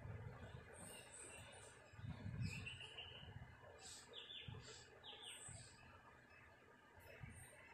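Faint outdoor ambience with scattered short chirps of small birds, some quick falling notes. A few low rumbles, the loudest about two seconds in.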